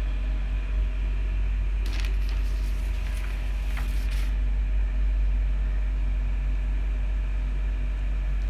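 A steady low hum of room background noise, with a few faint taps and rustles of handling about two to four seconds in.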